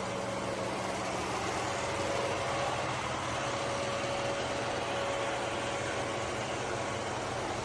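Robot vacuum running: a steady whirring rush of its suction fan with a faint high whine over it.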